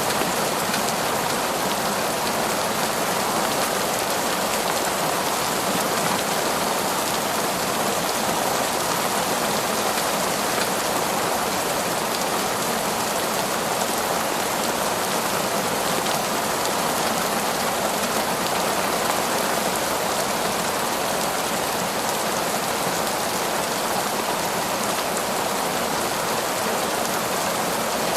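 Heavy, steady torrential rain pouring down on forest foliage, a dense even hiss with no let-up.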